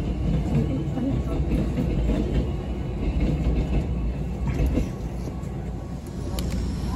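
Train running noise: a steady low rumble of wheels on the rails, with a couple of sharp clicks about two-thirds of the way through. The rumble eases slightly after about five seconds.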